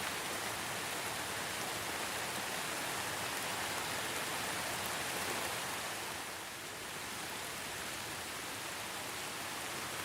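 Steady rain falling, an even dense hiss of many drops, softening briefly about six and a half seconds in.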